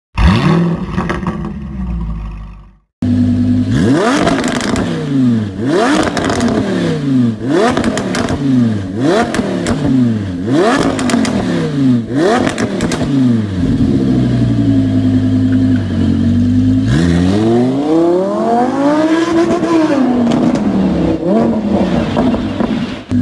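Audi R8's 5.2-litre V10 revving through a custom sports exhaust: a string of quick throttle blips, each a sharp rise in pitch falling back, about one a second, then a steady hold and one slower, longer rev. Sharp crackles and pops sound through it.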